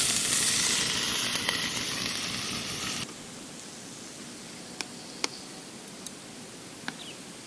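Meat sizzling loudly in a hot pan for about three seconds, then cutting off suddenly; after that only quiet background with a few light clicks.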